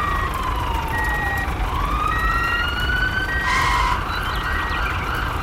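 A siren wail that slides down in pitch and then rises again, over a short high beep repeating about every 1.2 seconds and a low steady rumble. A brief hissing burst comes about three and a half seconds in.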